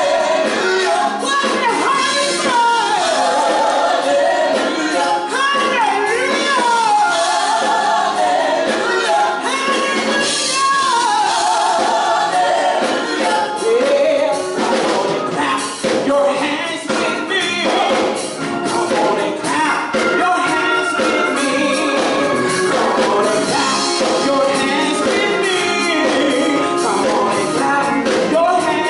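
Live gospel praise and worship singing: several voices singing over an instrumental accompaniment with percussion.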